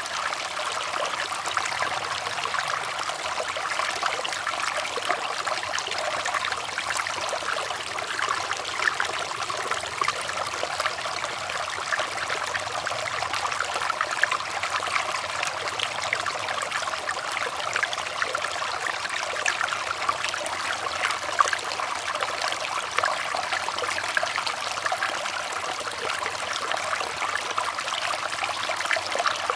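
Water flowing and trickling steadily, like a small stream, made up of many small splashes with little low rumble.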